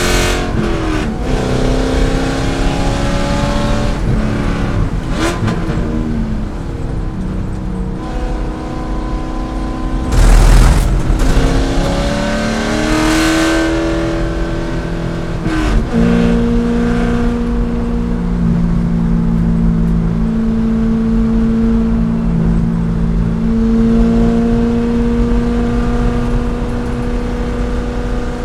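C5 Corvette race car's 5.7-litre V8 at racing speed, its pitch climbing and dropping several times through gear changes and braking. About ten seconds in there is a loud rushing noise, and from about sixteen seconds the engine holds a fairly steady pitch.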